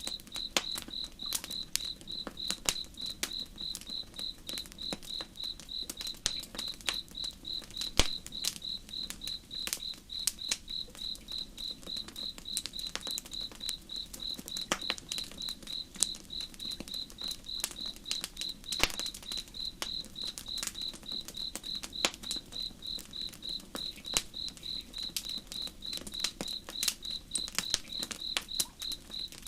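Campfire crackling, with irregular sharp pops and snaps, over a cricket chirping steadily at about two or three chirps a second. A soft, steady low rush sits underneath.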